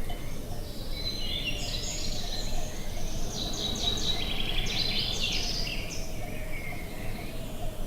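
Outdoor wind noise, a steady low rush, with a songbird singing rapid high chirps and trills for several seconds in the middle.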